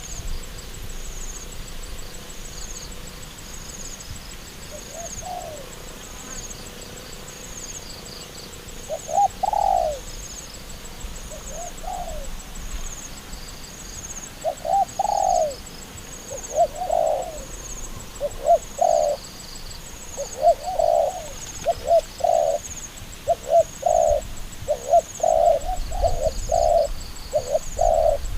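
Dove cooing: short, low calls, a few at first, then coming in a fast series through the second half.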